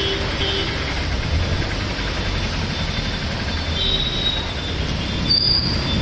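Steady rush of heavy rain and gusty wind with a deep rumble, broken by a few brief high-pitched squeals.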